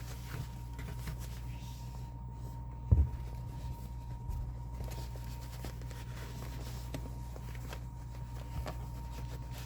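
Quiet handling of a fabric grime guard being fitted over a plastic Q-Snap cross-stitch frame, with faint clicks and one soft thump about three seconds in, over a steady low hum.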